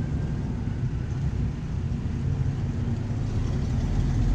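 Vehicle engines running low and steady as cars drive past slowly, with a louder, deeper rumble coming in near the end.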